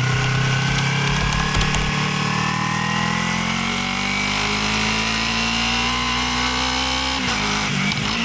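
Motorcycle engine through its stock exhaust, pulling steadily with the pitch rising slowly. Near the end the note drops briefly.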